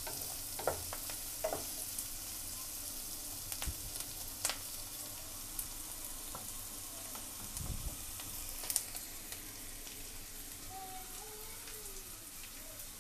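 Chopped onions and green capsicum sizzling steadily in hot oil in a nonstick wok, being lightly sautéed so they stay crunchy. A wooden spatula knocks and scrapes against the pan a few times, mostly in the first half.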